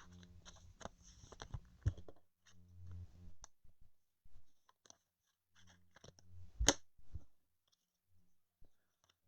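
Trading cards and plastic card sleeves being handled: scattered light clicks and crackly rustles, with one sharper click about six and a half seconds in. A faint low hum comes and goes.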